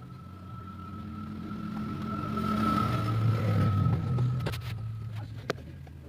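A motor vehicle passing by: its engine grows louder, peaks about three to four seconds in, then fades. A sharp knock comes about five and a half seconds in.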